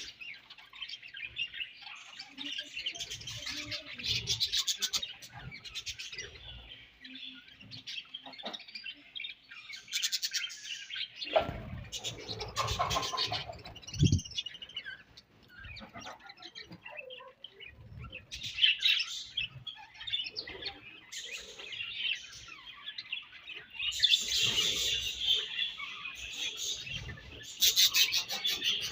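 A colony of budgerigars chattering and warbling together in a dense, continuous twitter. A few low knocks come about halfway through.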